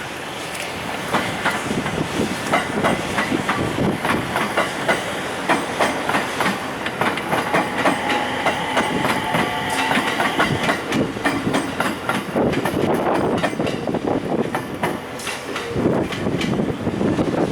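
JR Freight container train of Koki flat wagons rolling slowly past, its wheels clattering steadily over the rail joints, with a faint high-pitched wheel ring about halfway through.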